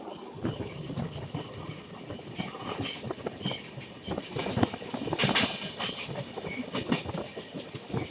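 Passenger train running at speed, heard from on board: a steady rumble with the wheels clattering over rail joints in irregular clacks, some louder ones about five seconds in.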